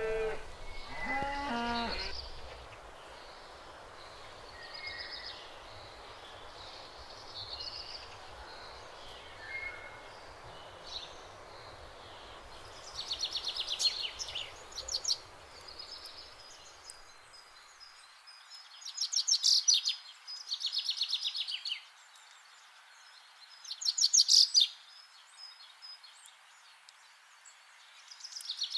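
A cow's moo trails off about two seconds in. From about halfway, songbirds sing in rapid high trills, several loud bursts in a row.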